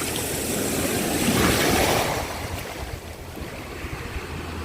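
Small surf washing up on a sandy beach: one wave swells and breaks, loudest about a second and a half in, then the wash fades back.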